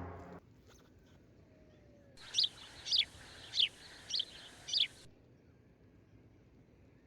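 A bird chirping five times in quick succession, short falling calls about half a second apart.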